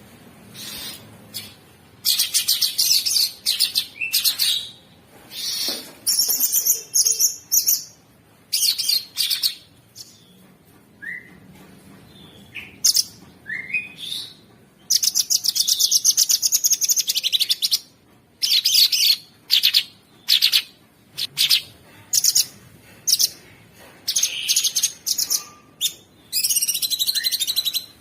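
Cucak sungkok songbird singing in loud bursts of fast, harsh rattling trills, with one long unbroken rattle and a few short rising whistles between the bursts. This is the coarse, machine-gun-like 'ngebren' fill that bird keepers play as a masteran to teach other songbirds.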